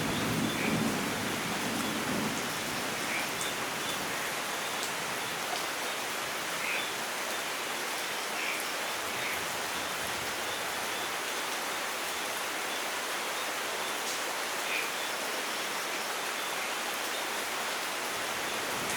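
Steady rain falling, an even hiss, with the tail of a thunder rumble dying away in the first second or two. A few faint short bird chirps sound now and then over the rain.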